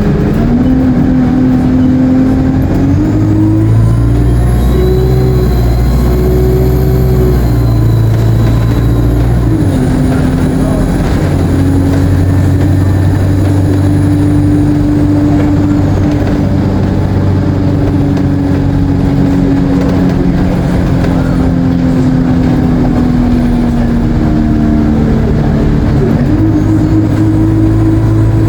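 Alexander Dennis Enviro 200 bus engine pulling under load, with a thin high turbocharger whine that rises, holds and fades, then comes back briefly near the end. The engine note steps in pitch several times as the Allison automatic gearbox changes gear.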